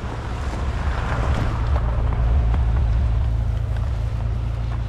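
An old classic car driving past, its engine and tyre rumble swelling to a peak about halfway through and then easing off slightly.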